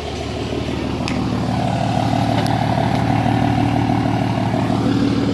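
Car engine idling steadily close by.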